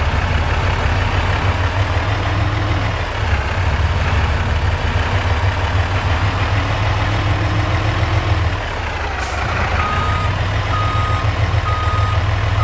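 Truck engine running with a steady low rumble; near the end a reversing alarm starts beeping, one even beep about every second.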